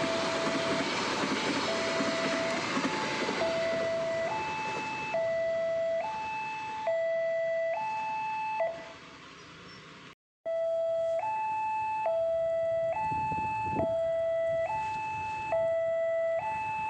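Railway level-crossing warning alarm sounding a steady two-tone signal, alternating between a lower and a higher pitch just under once a second. A passing train's rumble fades out over the first few seconds, and the sound cuts out briefly about ten seconds in before the alarm resumes.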